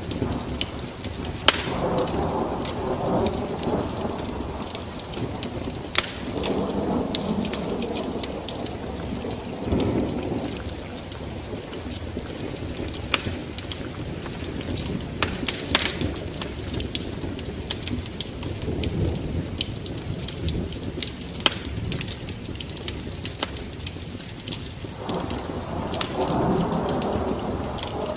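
Wood fire burning in a fireplace, crackling with frequent sharp pops over a low rushing sound of the flames that swells and fades several times.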